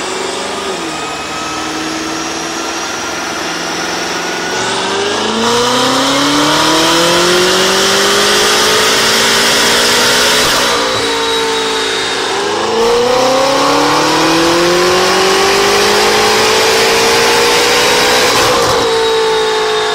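A 2013 BMW F10 M5's twin-turbo V8, breathing through an aftermarket Armytrix valved exhaust with downpipes, accelerating hard. Its pitch climbs steadily under load and drops sharply at each upshift: once about halfway through, again shortly after, and again near the end.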